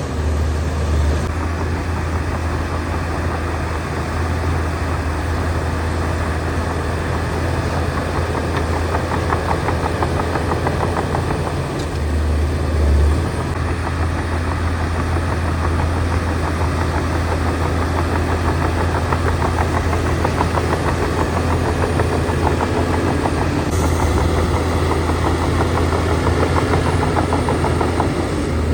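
Heavy earthmoving machinery's diesel engine running steadily, a deep low drone with dense mechanical clatter above it.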